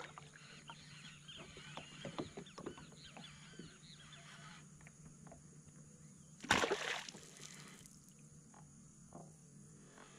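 Birds chirping in many short, quick, curving notes through the first four and a half seconds, over faint irregular clicks. About six and a half seconds in, a short rush of noise lasting under a second.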